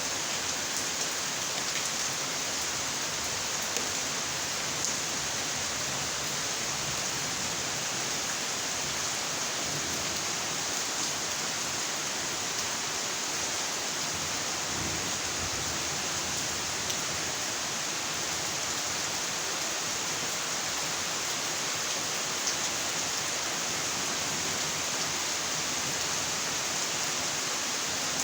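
Steady heavy rainfall, an even hiss with faint scattered drop ticks.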